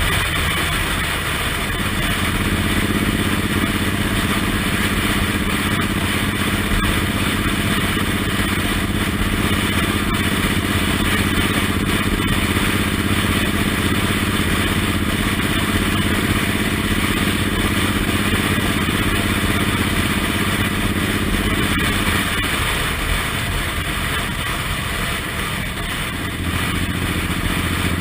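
Suzuki Intruder M1800R's V-twin engine running steadily while riding, under a heavy rush of wind noise. About 22 seconds in the engine note drops away, then picks back up a few seconds later.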